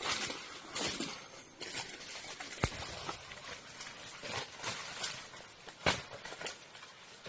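Irregular rustling and scuffing, with two sharp knocks, one about two and a half seconds in and one about six seconds in.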